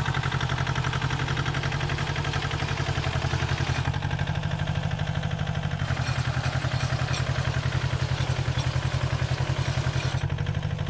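Tractor engine running steadily with a fast, even pulse, with machinery clatter from a hay baler at work. The higher sounds shift abruptly about four and six seconds in.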